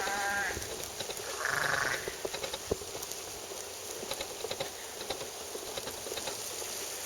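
An animal bleating twice: short, wavering calls, one at the start and another about a second and a half in, typical of farm livestock. Faint scattered ticks run underneath.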